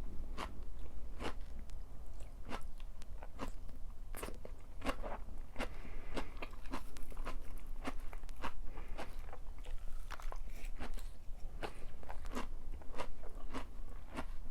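Close-miked crunchy chewing: a person bites and chews crisp food in sharp crunches, about two a second.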